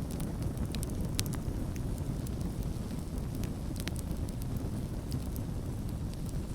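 Campfire crackling: irregular sharp pops and snaps over a steady low rumble. The pops come in a small cluster about a second in, then singly every second or so.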